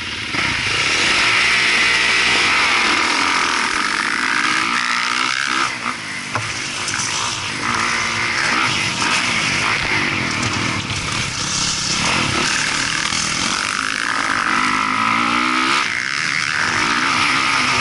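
Motocross dirt bike engine revving up and down as it runs, its pitch rising and falling over and over.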